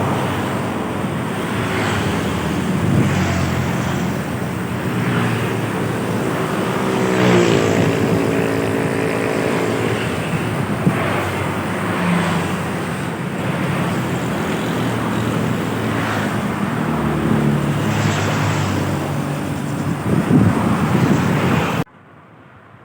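Heavy trucks and buses passing close by on a road: engines running with tyre and road noise. About seven seconds in, one engine's pitch shifts as it passes, and the sound cuts off abruptly near the end.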